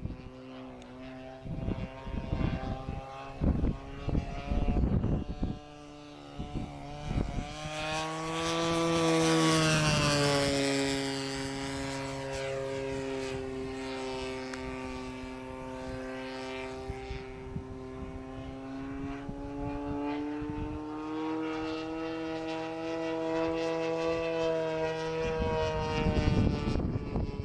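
Radio-controlled P-47 model's Evo 35cc two-stroke petrol engine droning as the plane flies, growing loudest about a third of the way in as it passes close, with its pitch dropping as it goes by, then holding a steady drone. Wind buffets the microphone in gusts at the start and near the end.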